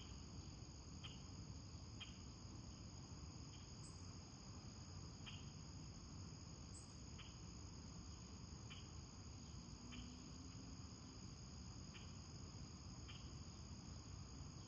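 Faint steady high-pitched trill of crickets, with soft short chirps about once a second over a low background hum.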